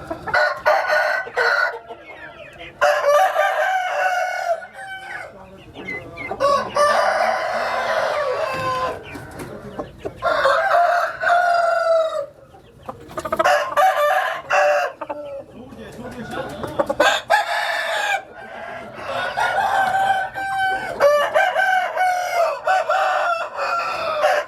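Gamefowl roosters crowing again and again, one long crow after another with short gaps, mixed with clucking.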